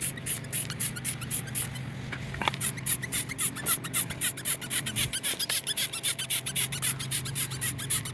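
Hand trigger sprayer being pumped rapidly, each squeeze a short hiss of degreaser spray, about six a second, with a brief pause about two seconds in.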